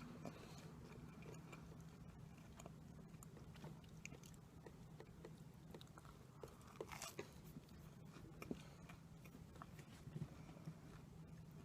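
Faint close-up biting and chewing of sweets, with scattered small crackly clicks, a denser cluster about seven seconds in, over a steady low hum.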